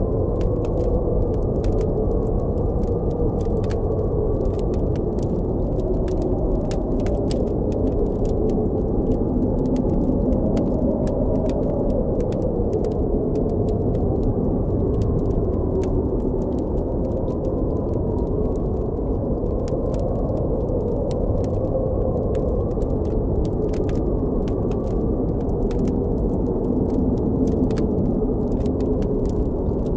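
Steady low blizzard wind, its pitch slowly rising and falling, with a campfire crackling in frequent small sharp pops throughout.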